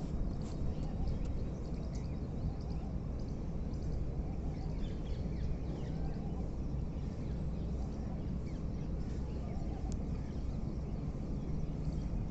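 Steady low rumble with faint, scattered bird chirps throughout.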